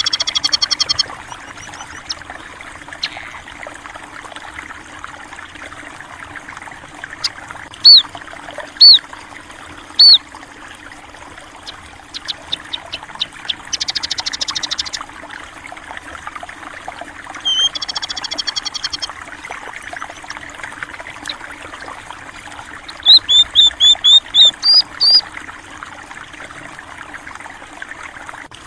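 Water running steadily in a small stream, with small birds chirping over it: three single chirps about a second apart, then a rapid trill, and a quick run of chirps near the end.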